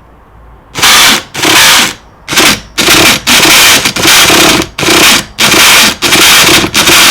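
Starter box's electric motor cranking a Hobao Hyper 7 nitro buggy's engine in about ten short bursts, one after another. The engine does not catch between them: it won't start.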